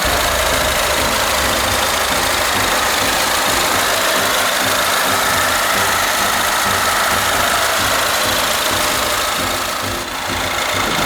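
Peugeot RCZ's 1.6-litre direct-injection turbocharged four-cylinder engine idling steadily, with a brief dip in level about ten seconds in.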